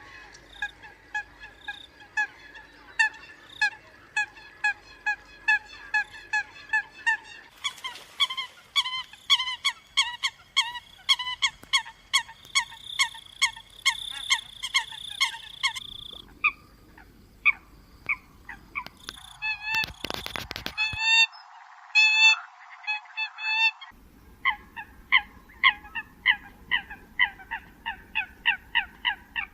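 Eurasian coots calling in a rapid series of short, sharp, honking notes, about two a second at first and quickening to three or four a second, as a looped lure-call recording. The track is spliced, so the level and tone change abruptly every few seconds, with a brief crackle about two-thirds of the way in.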